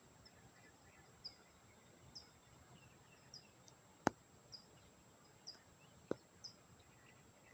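Faint, high short chirps repeating about once or twice a second, like a small bird calling, over a quiet background hiss. There is a sharp click about four seconds in and a softer one about six seconds in.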